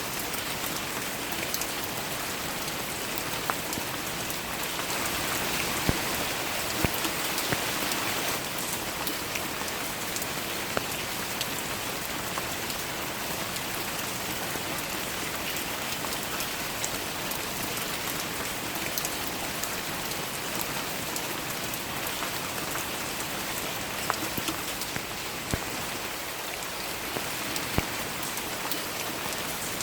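Steady rain falling, with scattered sharp ticks of individual drops hitting a surface close by.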